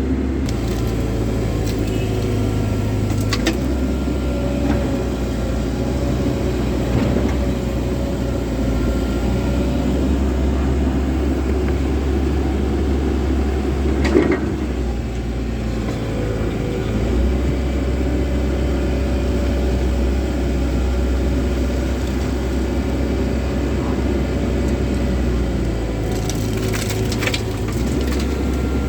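Komatsu excavator's diesel engine running steadily under load as it digs and loads rock and soil, its note shifting as the hydraulics work. Scattered knocks and crunching of rock, the loudest about halfway through and a cluster near the end.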